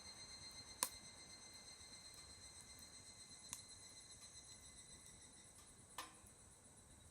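Wood fire burning quietly in a homemade secondary-combustion fire grill, with three sharp crackles: one about a second in (the loudest), one midway and one near the end.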